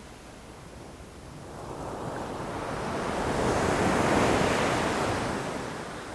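Ocean waves breaking against rocks: one wave builds from about a second in, crashes loudest around four seconds, and washes back down toward the end.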